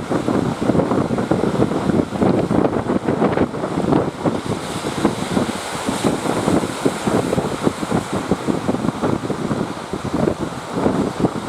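Strong gusty wind buffeting the microphone in a constant rumbling rush, with the noise of surf mixed in beneath it.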